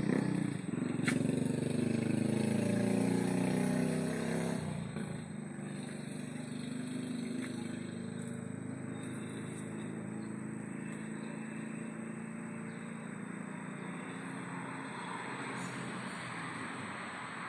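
A motor vehicle's engine running loudly close by for the first four or five seconds, its pitch wavering, then fading away. After that comes a steady outdoor hiss with a thin, high, steady whine underneath.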